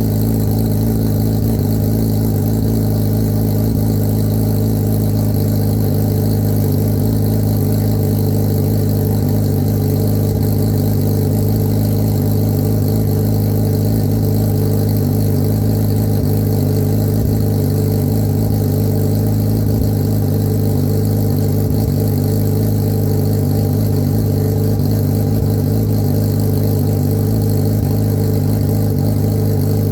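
Suzuki Hayabusa's inline-four engine idling steadily while warming up after a cold start, its pitch holding constant.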